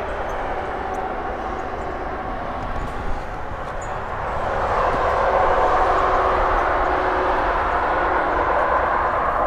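Steady rumble and hiss of traffic, swelling louder about halfway through as a vehicle passes.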